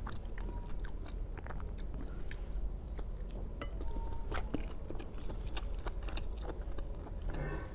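A person chewing and biting soft veg steamed momos, with many small wet mouth clicks scattered unevenly.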